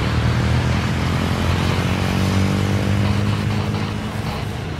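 Aircraft engines running close by: a loud, steady low drone with a hum, easing slightly near the end.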